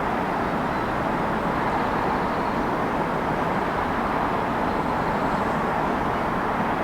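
Steady city ambience: a continuous wash of traffic noise with no single vehicle standing out.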